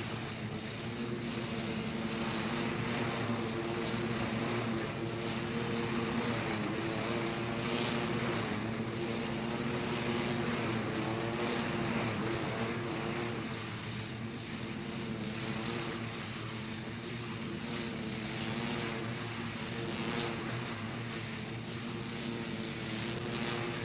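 John Deere L120 lawn tractor engine running steadily while mowing, with the mower deck driven by a freshly fitted belt that runs smoothly.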